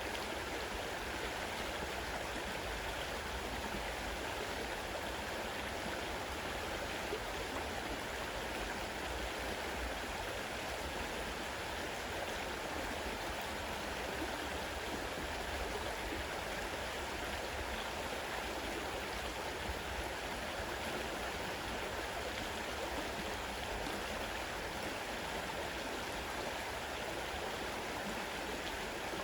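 Fast-flowing river water rushing steadily over its bed.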